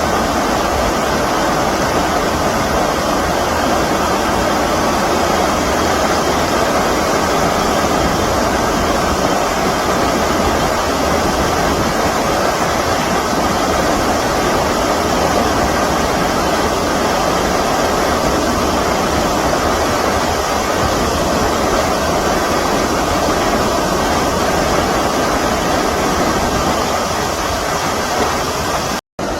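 Stream water rushing steadily, a loud even wash of flowing water, cutting out for a split second near the end.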